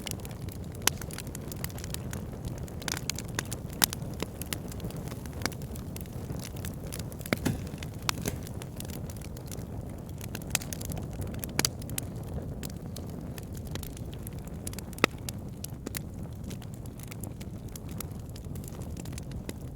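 Wood fire burning in a fireplace: a steady low noise of the flames with irregular sharp crackles and pops, and a few louder snaps scattered through.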